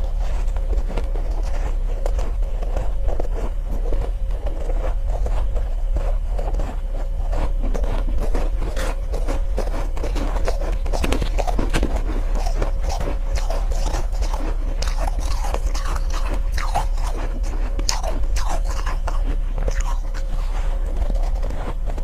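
Close-miked biting and chewing of soft, powdery ice, a dense continuous crunching crackle of many fine clicks, over a steady low hum.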